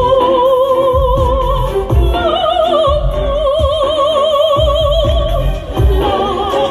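Soprano voices singing operatic-style long held notes with a wide vibrato over instrumental accompaniment that has a low pulsing beat.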